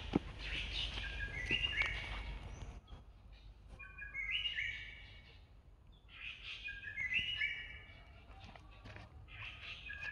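A songbird singing a short phrase of several clear notes at different pitches, repeated about every three seconds, over a low rumble in the first few seconds.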